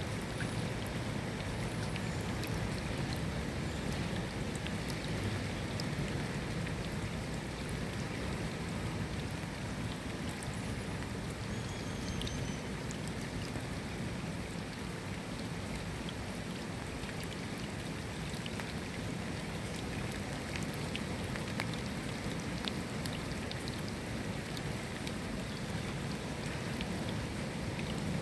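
Steady rain, with scattered single drops ticking on a surface.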